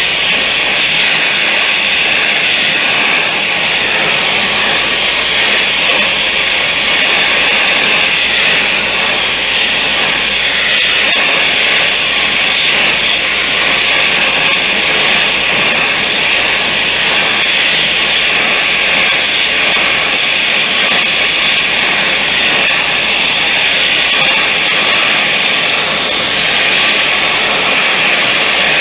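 Blacksmith's forge running with a loud, steady hiss of forced air, heating the poker's steel.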